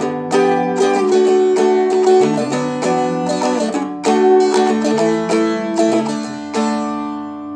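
Seagull Merlin, a four-string fretted dulcimer-style instrument, strummed in a steady rhythm with chords left to ring rather than palm-muted. The last strum, about six and a half seconds in, rings out.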